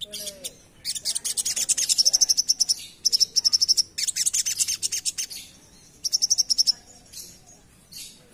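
Little spiderhunter (sogok ontong) singing its rapid chattering song, in four bursts of very fast, high-pitched notes, followed near the end by a few softer single calls.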